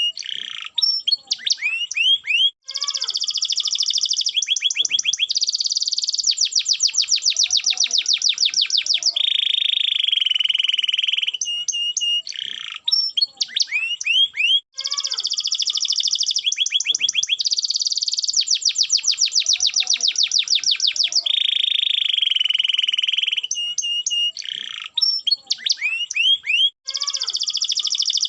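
Domestic canary singing a long, continuous song of rapid trills and rolls, with high fast note series and lower rolled tours; the same sequence of phrases repeats about every twelve seconds, as in a looped recording.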